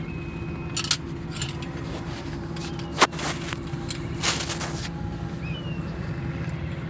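A few sharp metallic clinks and scrapes of hand tools on an engine head during tappet adjustment, the loudest about three seconds in, over a steady low machine hum.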